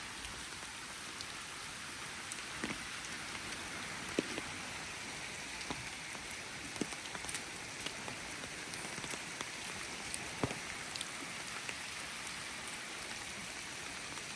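Steady rain falling: a constant hiss with scattered sharp drip ticks.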